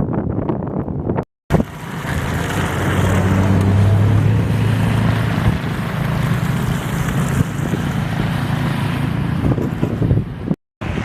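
Storm wind buffeting the microphone in a snowstorm, with a steady low engine hum from a vehicle underneath, loudest a few seconds in. The sound cuts out briefly about a second in and again near the end.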